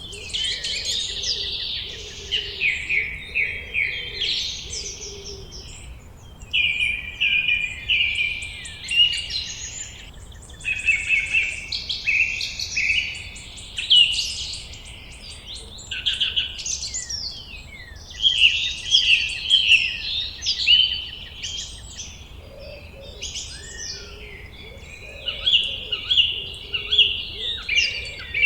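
A chorus of songbirds singing, several birds at once: rapid chirps, trills and warbled phrases coming in bursts with short lulls between them.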